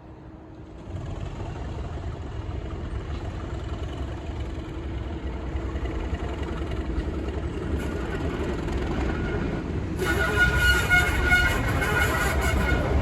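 English Electric-engined Class 37 diesel locomotives working hard under power, their low engine note growing steadily louder as they approach. About ten seconds in, a high whistling tone suddenly joins the engine sound and holds.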